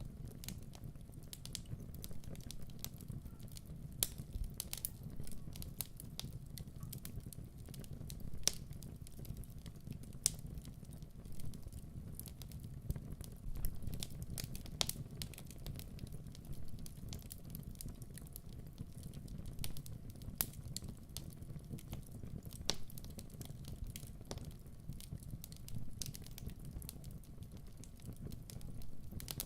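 Fire burning in a fireplace: irregular crackles and sharp pops over a low, steady rumble.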